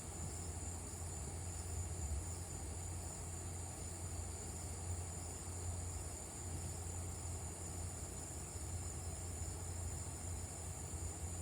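An insect chorus of crickets and cicadas: a steady, unbroken high-pitched trill. A low steady hum runs beneath it.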